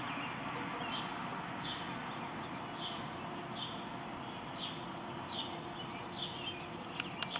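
A bird repeating a short, falling chirp about once a second over steady outdoor background noise, with two sharp clicks near the end.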